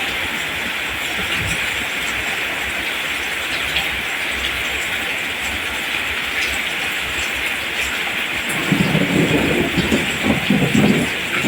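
Steady rain falling, an even hiss. About eight and a half seconds in, an irregular low rumbling swells for a couple of seconds over the rain.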